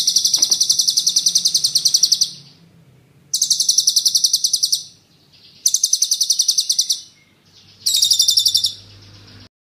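A songbird singing four bursts of rapid, high-pitched repeated notes, about ten a second, each burst lasting one to two seconds with short pauses between: the fast trilled 'tembakan' phrase prized in songbird-training recordings.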